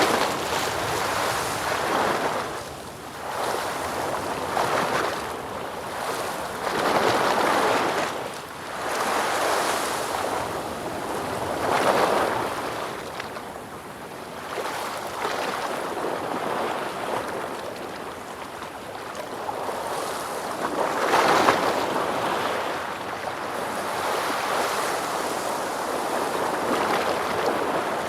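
Ocean waves washing ashore, the surf swelling and falling away in repeated surges every few seconds, with a louder break about twenty-one seconds in.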